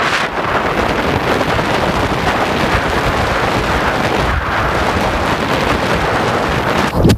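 Heavy wind buffeting on the microphone of a motorcycle moving at speed, a steady loud rush that covers the engine.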